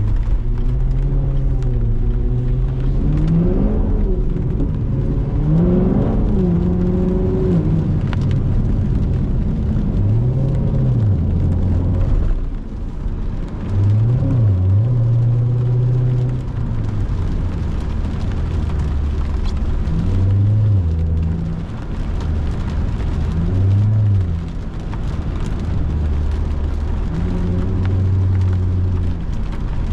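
C7 Corvette's V8 engine pulling and shifting, its pitch climbing and then dropping back several times, over steady tyre noise on the wet road.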